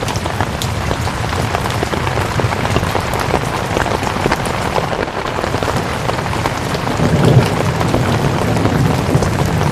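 Steady heavy rain, a dense hiss with many individual drops ticking through it. A low rumble swells about seven seconds in.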